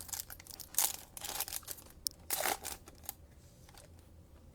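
Trading cards and foil pack wrappers being handled: a run of short crinkling, rustling sounds over the first three seconds, then softer handling.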